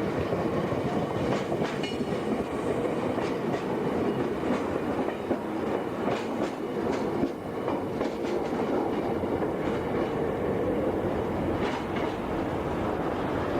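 Meitetsu Inuyama Line electric train running past, with a steady rumble and repeated clicks of its wheels over the rail joints.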